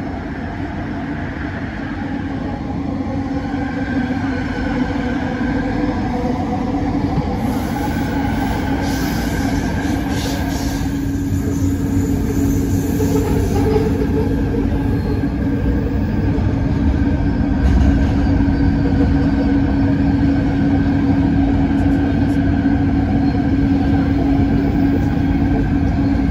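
Bombardier Innovia ART 200 light-rail train running, heard from inside the carriage: a steady hum and rolling noise that grows louder over the first several seconds.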